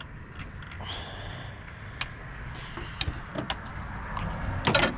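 Scattered metallic clicks and clinks of hand tools as a spark plug is taken out of the engine, with a brief high squeak about a second in and a quick run of clicks near the end.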